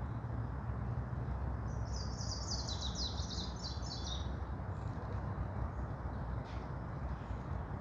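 A songbird sings one fast run of short high notes that steps down in pitch, lasting about two and a half seconds, starting about two seconds in, over a steady low rumble.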